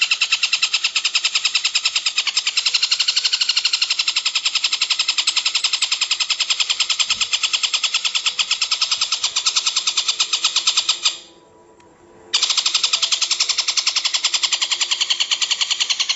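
Recorded songbird calls for bird training: a rapid, continuous trill of high repeated notes, which breaks off for about a second roughly two-thirds of the way through and then resumes.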